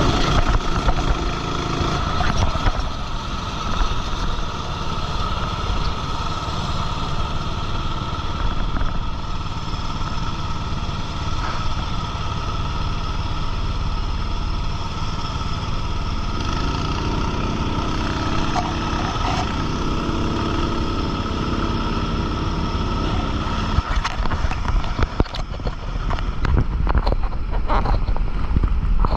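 Racing kart engine running hard at race speed, heard continuously.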